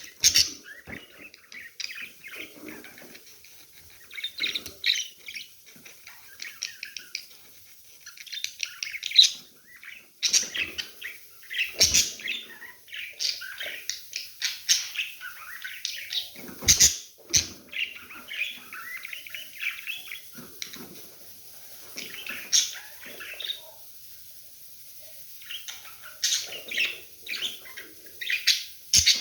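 Budgerigars chattering and warbling continuously in quick chirps, with a few sharp clicks or knocks mixed in.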